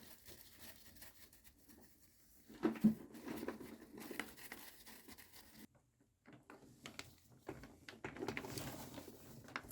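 Faint scratching and rustling of a brush scrubbing dirt out of a scooter's variator housing, with a few small clicks and knocks.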